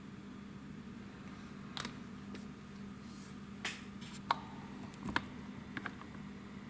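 Several small, sharp clicks and taps of hard plastic scale-model parts being handled and test-fitted, over a faint steady hum.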